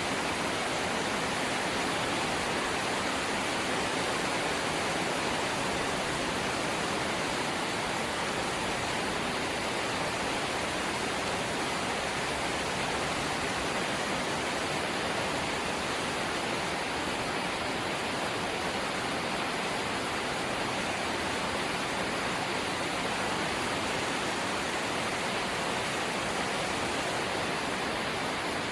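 Steady light rain, an even hiss with no single drops standing out.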